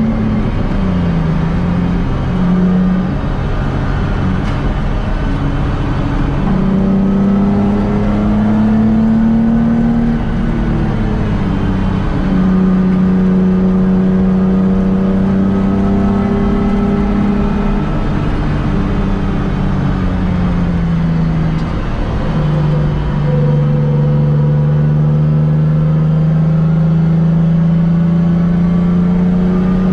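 Nissan 350Z's 3.5-litre V6 with aftermarket headers, sport catalysts and exhaust, heard from inside the car at speed. Its note rises and falls with throttle and gear changes. It dips briefly near the start, eases off a few times in the middle, then steps down in pitch and climbs slowly for the rest under steady acceleration.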